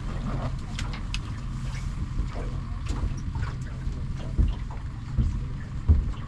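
A boat's motor running steadily with a low hum, with scattered light clicks and two dull thumps on the boat near the end.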